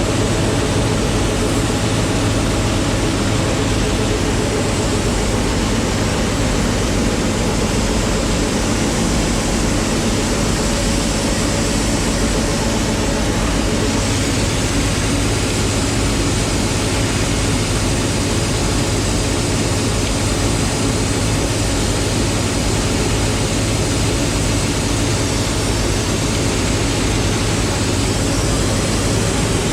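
Mazzotti self-propelled high-clearance crop sprayer running steadily while spraying a maize crop: an even engine drone with a constant low hum and a broad rush of noise over it, with no change in speed or load.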